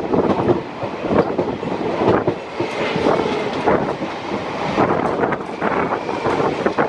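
Passenger coach of an Indian express train running at speed, heard from its doorway: wheels clattering and rattling over the track.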